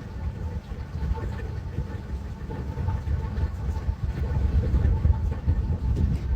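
Steady low rumbling noise that swells slightly through the middle.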